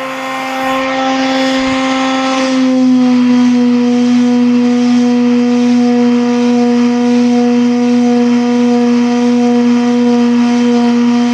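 A machine running with a steady, loud pitched hum, which drops a little in pitch and settles about two and a half seconds in.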